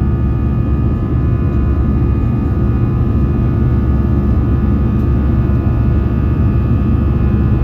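Airbus A320-214 cabin noise after take-off: the steady, loud rumble of its CFM56 engines and rushing air, with several steady tones humming on top.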